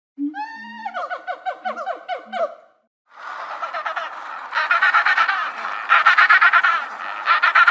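A rapid run of repeated pitched animal calls, about six a second. After a short pause, a flock of birds breaks into a dense clamour of overlapping calls, which grows louder about halfway through.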